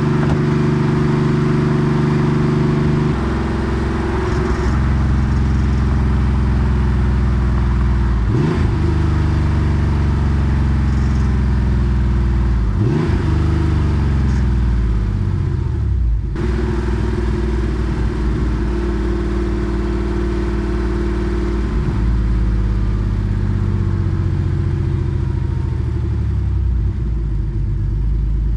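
Porsche 964 Carrera 2's air-cooled 3.6-litre flat-six running through a centre straight-pipe muffler while driving, a steady loud exhaust note. The revs change several times, with shifts or lifts about 3, 8, 13 and 16 seconds in, the pitch falling away after the middle two.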